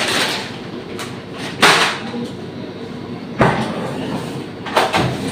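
Three sharp knocks of kitchen things against a hard surface, spaced about a second and a half apart, over a steady background hiss.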